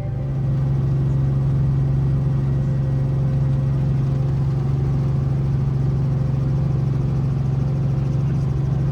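Helicopter running steadily: a constant low hum over a broad, even rushing noise.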